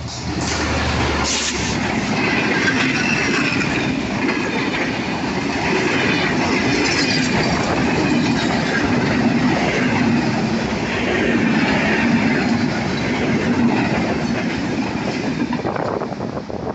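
Rupsha Express passenger train's coaches passing close by: a loud, steady rumble and rattle of wheels on the track that starts to break up near the end as the last coaches go by.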